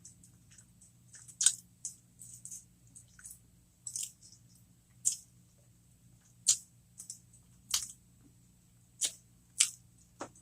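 Close-miked mouth sounds of someone chewing soft food, a cheeseburger jalapeño popper: short wet smacks and lip clicks at irregular intervals, roughly one a second, over a faint steady hum.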